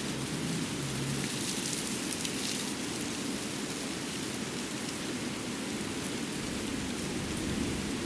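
Steady, even rush of outdoor water noise, with a few faint light pattering ticks about two seconds in.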